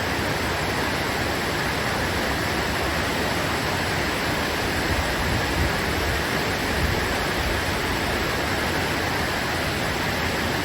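Flooded creek running fast over a road: a steady, unbroken rush of floodwater.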